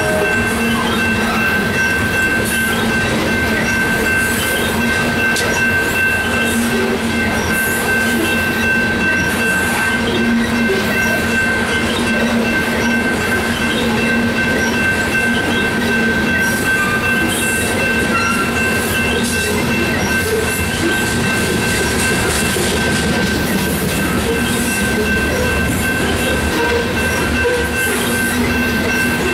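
BNSF unit coal train's hopper cars rolling past steadily: a continuous rumble of steel wheels on rail with clickety-clack over the joints and a steady high-pitched wheel squeal.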